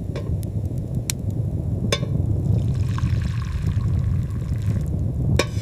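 Warm drink being poured into a cup, a soft splashing hiss for a couple of seconds in the middle, over a steady low rumble with a few sharp clicks scattered through.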